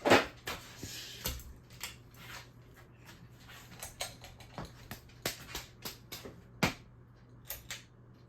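A string of irregular sharp clicks and knocks, about a dozen spread unevenly, with a strong one near the start and another about two-thirds of the way through, over a steady low hum.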